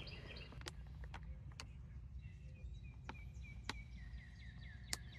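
Faint outdoor ambience: a songbird repeating short, quick, down-slurred notes, with a few sharp clicks scattered through and a low steady rumble underneath.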